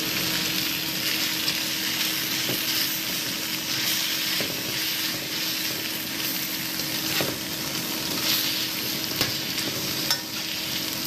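Food sizzling steadily in a hot frying pan while it is stirred, with a few light clicks of the utensil against the pan.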